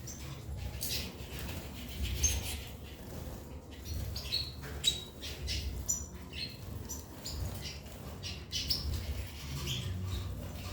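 Birds squawking and chirping: many short, irregular high calls, some overlapping, over a low background rumble.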